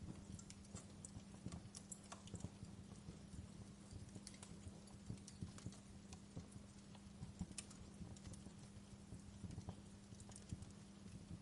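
Wood fire crackling, with irregular sharp pops and snaps at uneven intervals over a low steady hum.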